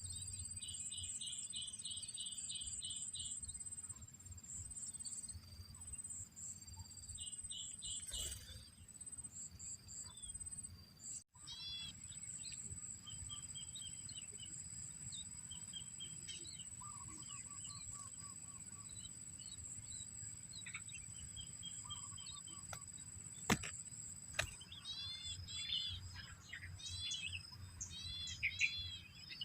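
Small birds chirping over a steady high-pitched insect chorus, with rapid trilling pulse trains in the first half. After a momentary break about eleven seconds in, there is a single click, then short arching chirps come thick and fast near the end.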